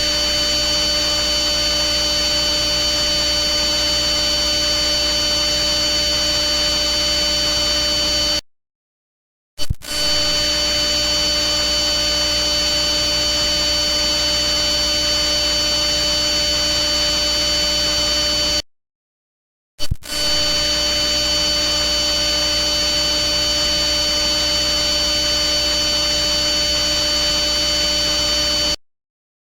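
A steady, unchanging buzzing hum made of several fixed pitches over a hiss, looped in stretches of about nine seconds. Each stretch cuts off into about a second of silence and restarts with a click, twice.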